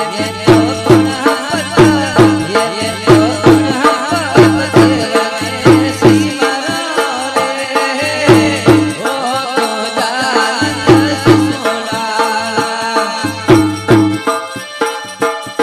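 Desi garba folk music: a steady, heavy drum beat under an ornamented, wavering melody line.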